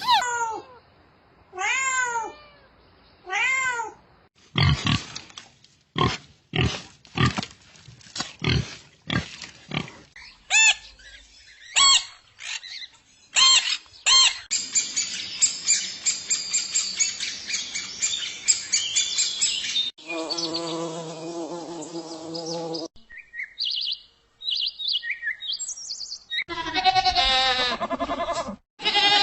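A sequence of different animal calls, one kind after another: three arched calls, a run of sharp clicks, fast high chirping, a steady pitched call, and a warbling call near the end.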